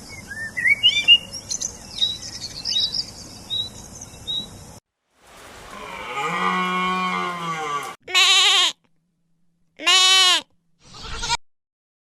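Separate animal clips cut one after another: high rising chirps over a steady hiss for the first few seconds, then one long, drawn-out low call. After that come two short, wavering bleats about two seconds apart.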